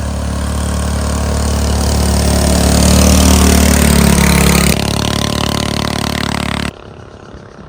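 A truck engine running loud and steady, swelling a little, then dropping in level about five seconds in, and cutting off abruptly near the end.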